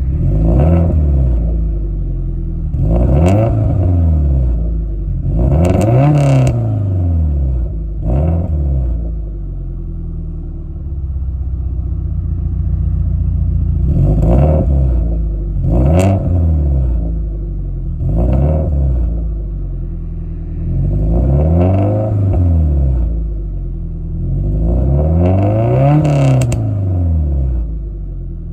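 JDM-swapped flat-four engine in a 1998 Subaru Impreza being free-revved: about nine quick blips, each rising in pitch and falling back to idle, with a longer stretch of steady idle in the first half.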